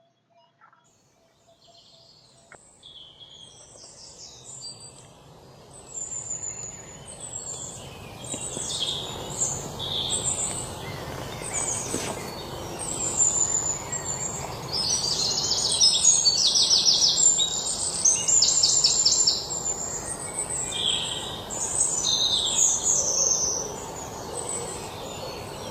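Several wild birds chirping and calling, with rapid trilling songs in the middle, over a steady outdoor hiss. The sound fades in over the first few seconds.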